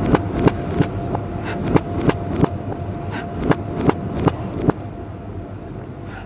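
Kitchen knife chopping vegetables on a cutting board: sharp, uneven strokes about two to three a second, thinning out near the end, over a faint steady tone.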